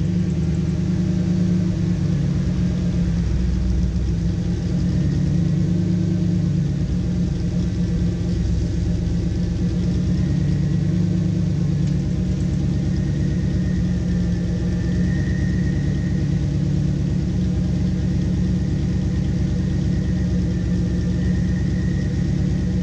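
A 1988 Pontiac Firebird Formula's 305 small-block Chevy V8, breathing through a Magnaflow cat-back exhaust, idling steadily seconds after a cold start. It is the car's first start after months of storage.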